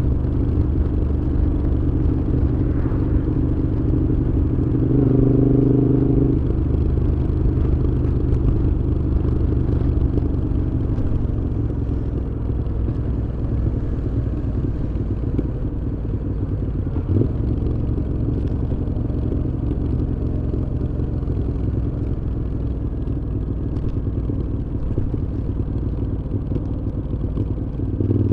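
Moto Guzzi V7's air-cooled transverse V-twin running through a Mistral aftermarket exhaust while riding, a steady engine note that grows louder and fuller for a moment about five seconds in and again at the very end.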